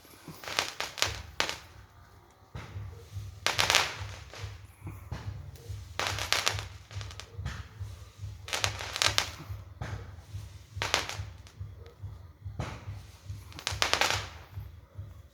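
Fireworks going off: clusters of sharp bangs and crackles roughly every two to three seconds, over a continuous low rumble.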